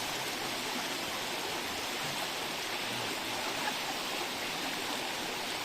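Rushing river water over cascades, a steady even rush.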